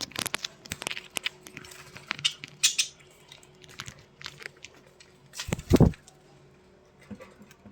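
Budgerigars chirping and chattering in short, scratchy calls and clicks. A louder bump or scuffle comes about five and a half seconds in.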